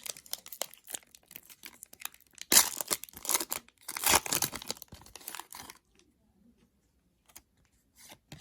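Foil trading card pack being torn open and its wrapper crinkled, in a run of crackly tears loudest about two and a half and four seconds in, then going quiet with a few light clicks near the end.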